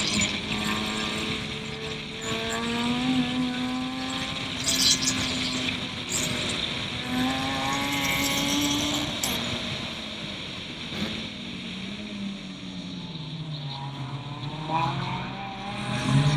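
Turbocharged Suzuki Swift race car engine under hard driving, its pitch climbing and dropping repeatedly as it accelerates through the gears and slows. A long fall in pitch comes from about ten seconds in, with the engine picking up again near the end, and a few brief hissing bursts come around the middle.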